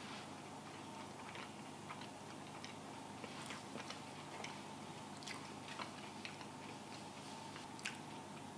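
Faint chewing of soft, oily matcha-coconut energy bites: scattered small wet mouth clicks at irregular moments, over a steady low room hum.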